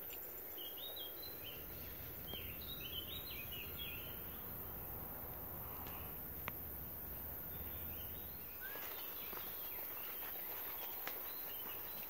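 Woodland background with a small bird's short chirping notes, a cluster in the first few seconds and more near the end, and a few faint clicks.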